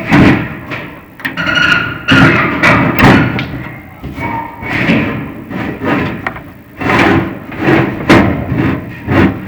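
A series of sharp knocks and thuds, roughly one a second, some leaving a brief ringing tone.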